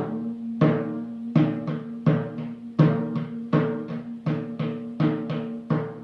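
A tuned drum struck in a steady rhythm, about three strokes a second with every other stroke louder, each one ringing with a low pitched tone.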